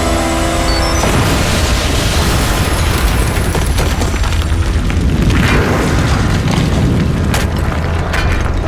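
Soundtrack music cut off about a second in by a heavy explosion-like blast, which keeps going as a long, dense rumble with a few sharp cracks near the end.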